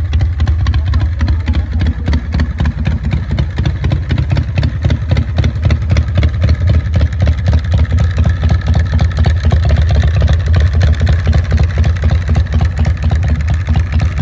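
Zero Engineering custom motorcycle's V-twin engine running at a steady idle, a loud, even train of exhaust pulses.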